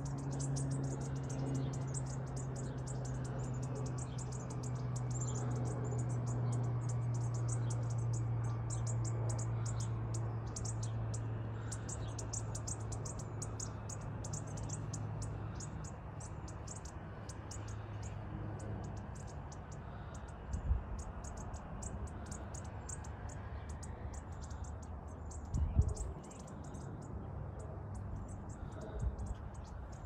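Small songbirds chirping constantly in quick, high, short notes. A steady low hum sits underneath through the first half, and three brief low thumps come in the second half.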